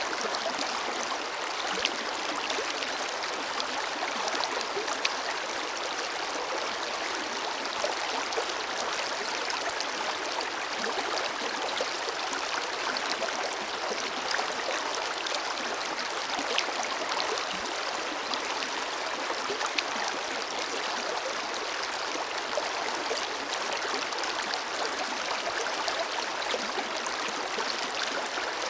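Forest river flowing: a steady rush of running water over stones, with small splashes and gurgles scattered through it.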